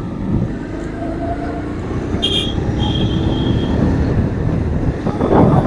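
Motorcycle ride in traffic: steady engine and road rumble that grows louder, with a brief high tone a little after two seconds in. Wind buffets the microphone loudly near the end.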